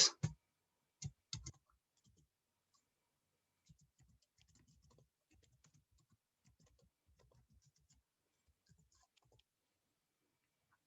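Computer mouse and keyboard clicks: two sharp clicks about a second in, then a long run of faint, scattered clicking.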